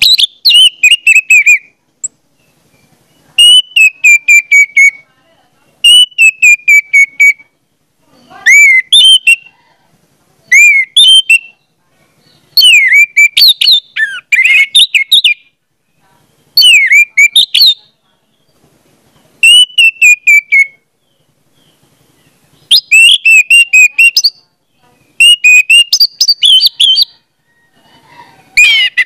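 A songbird singing short phrases of quick whistled notes, many sliding down in pitch, one phrase every two or three seconds with silent gaps between.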